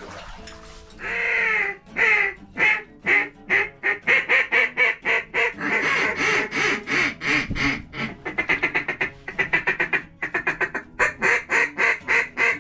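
Duck call blown in a long series of loud, repeated quacks, some drawn out and others in quick runs of short notes, with a brief pause near the end. This is a hunter's calling to work incoming mallards toward the decoys.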